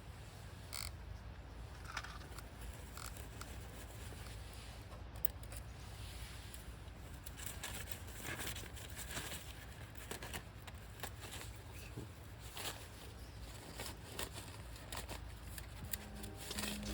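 Open wood campfire crackling faintly, with scattered irregular small pops and snaps over a low steady rumble.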